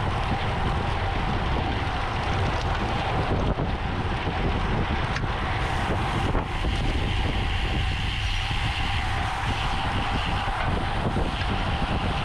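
Wind rushing over the microphone of a camera on a racing bicycle at speed, with a steady low rumble of tyres on the road. A higher whir joins about halfway through.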